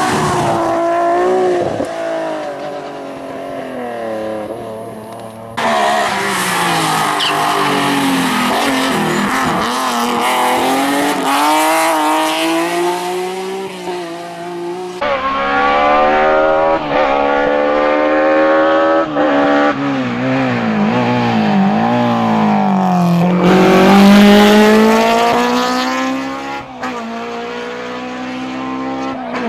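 BMW M3 race cars on a hill climb, engines revving hard and climbing in pitch, then dropping at each gear change, again and again. The sound changes abruptly twice, about five and fifteen seconds in, as the footage cuts to another run.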